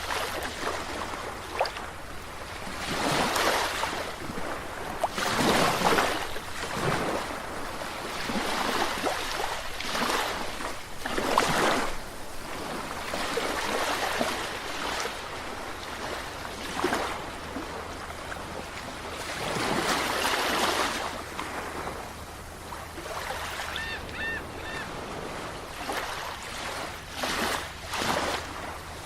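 Sea waves breaking and washing in, rising and falling in irregular surges every few seconds. About three quarters of the way through come three short, high chirps.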